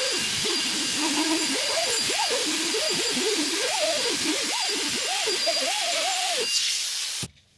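Die grinder with a Scotch-Brite pad running against a rough metal edge to deburr it. It gives a steady hiss over a whine that wavers up and down, and stops abruptly near the end.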